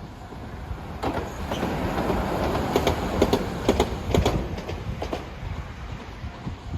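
A train passing close by: its rumble builds about a second in, the wheels click sharply over the rail joints through the middle, then it fades away.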